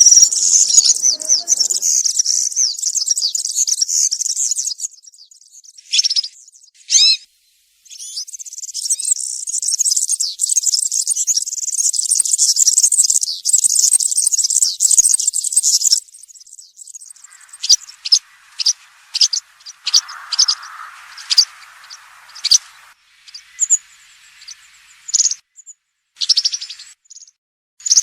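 European serin singing: a long, rapid, high-pitched jingling song of about five seconds, a second song of about eight seconds after a short pause, then a string of short separate chirps with gaps between them. A faint hiss sits under the later notes.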